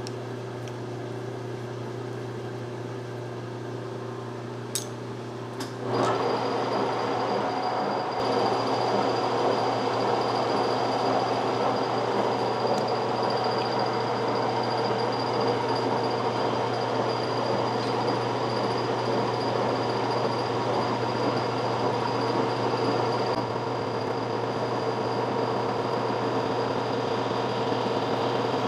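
Milling machine running with a steady hum; about six seconds in, after two light clicks, the cutter bites into stainless steel and a louder, steady cutting noise with a high-pitched tone sets in and carries on.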